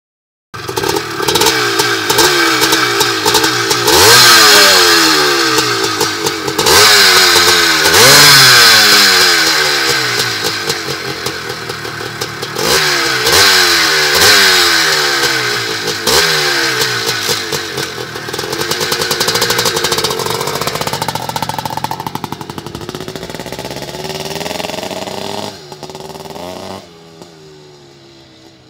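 1982 Maico 490's air-cooled two-stroke single-cylinder engine, revved again and again with sharp throttle blips while the bike stands still, then pulling away and fading steadily into the distance.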